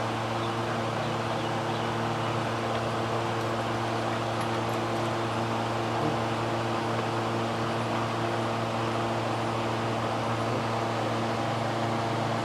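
Steady machine hum with a few constant low tones over an even hiss, unchanging throughout.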